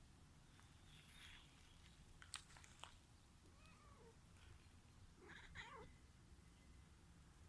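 Faint domestic cat calls: a couple of short, soft meows, the clearest about five and a half seconds in, with a few soft clicks in between.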